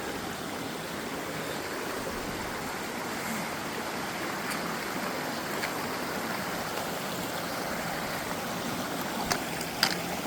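Steady rushing of a mountain creek flowing over rocks at a trail crossing, with a few faint clicks near the end.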